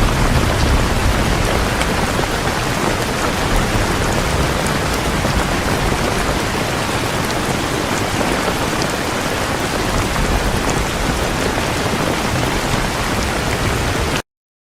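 Heavy rain pouring steadily, a dense even hiss with scattered drop ticks and a low rumble in the first second or so. The sound cuts off abruptly just before the end.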